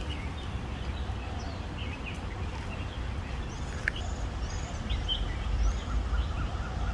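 Small birds chirping and calling: short high chirps and arched call notes repeating throughout, with one brief sharp whistle near the middle, over a steady low rumble.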